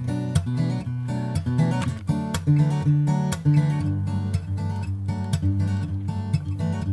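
Background music: an acoustic guitar arrangement, plucked and strummed notes.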